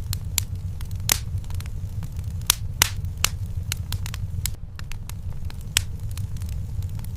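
Wood fire crackling in a fireplace: irregular sharp pops and snaps over a steady low rumble, the loudest pops about a second in and around three seconds in.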